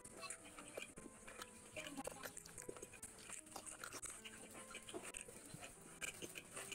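A person chewing a mouthful of food close to the microphone: soft, wet mouth clicks and smacks, fairly faint.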